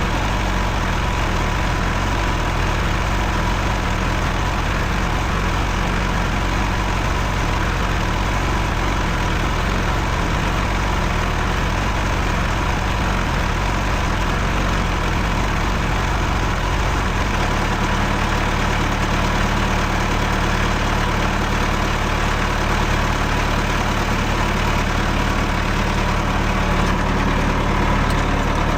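John Deere tractor engine running steadily while towing another tractor, with a shift in its engine note about two-thirds of the way through.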